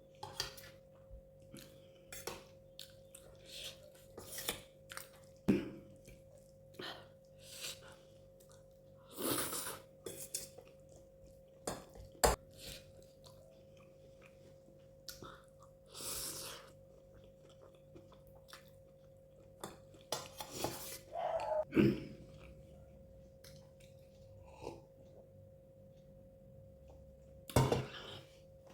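Close-miked eating of noodles and egg curry: a spoon clicks and clinks against the plate now and then, between stretches of chewing, over a faint steady hum.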